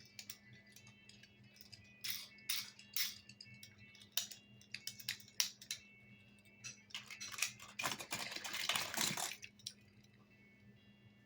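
Toy construction vehicles being handled, with scattered clicks and knocks and a longer rattling clatter about eight seconds in.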